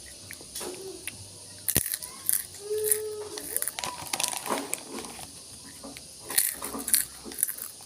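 Crackling and crunching of a potato snack being eaten, in short irregular clusters of sharp crackles.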